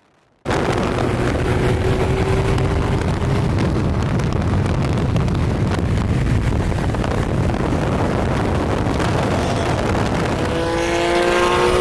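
Car at speed: a loud, steady rush of engine, wind and road noise that cuts in suddenly about half a second in. Near the end the engine note climbs in pitch as a car accelerates hard.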